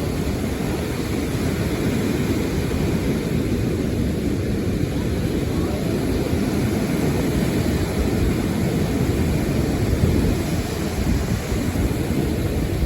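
Steady low rumble of wind and sea, with wind buffeting the microphone.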